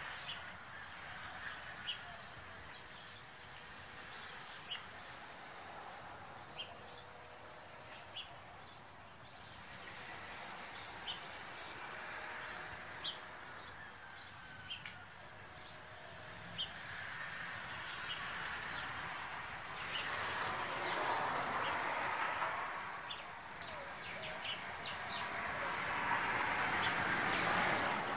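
Small birds chirping in short, scattered calls, with one longer whistled note about four seconds in. Under them is a rushing background noise that swells and fades several times.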